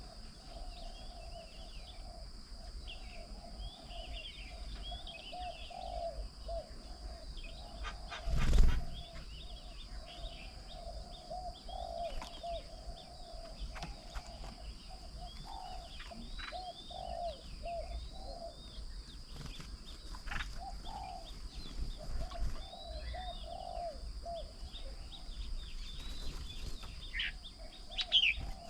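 Several birds calling and chirping at a garden bird table: many short high chirps over a steady, repeated lower call, with a steady high hiss behind them. About eight seconds in, a brief loud rush of noise stands out above the calls.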